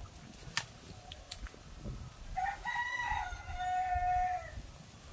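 A rooster crowing once, a cock-a-doodle-doo of about two seconds that ends on a long held note. A couple of sharp clicks come before it.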